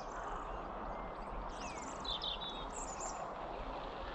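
Small birds chirping and singing repeatedly, most busily midway through, over a steady outdoor background hiss.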